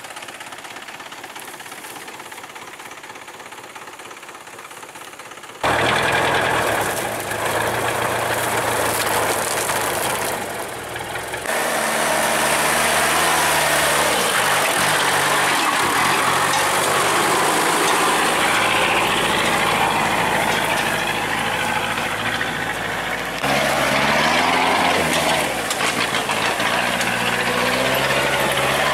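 Truck engine running under load and revving, its pitch rising and falling. It is fairly quiet at first, then comes in much louder about six seconds in and stays loud.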